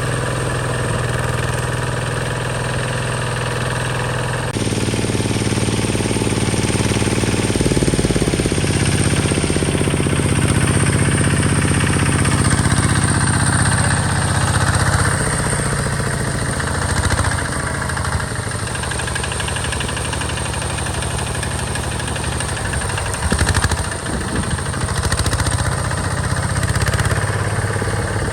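Single-cylinder diesel engine of a Hinota HG Gold 155 DI walk-behind tractor running steadily with a knocking beat, its speed shifting up and down a few times. A short louder rattle comes late on.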